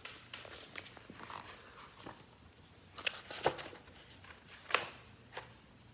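Scattered light knocks, clicks and rustles of handling in a small room, the sharpest a few clicks about three seconds in and another near five seconds in.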